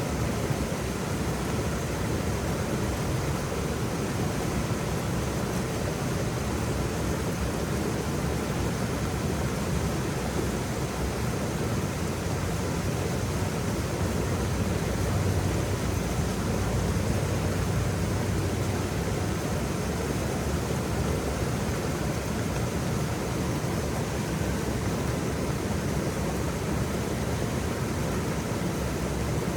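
Waterfall: a steady, continuous rush of falling water, heaviest in the low end, with no breaks or separate splashes.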